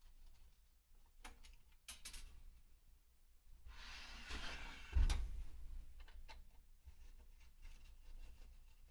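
Small clicks and knocks, with a rustling scrape that builds up and ends in a thump about five seconds in.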